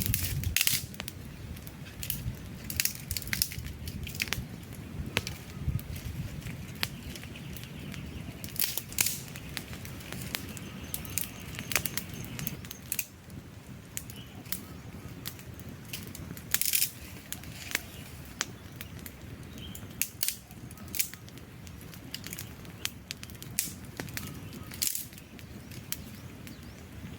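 Wood fire crackling: frequent sharp, irregular pops and snaps of burning logs over a steady low rush of flame.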